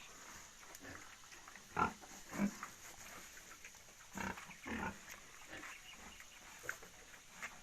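Pigs giving a few short, soft grunts, about four of them, with small shuffling clicks between, as they rest after feeding.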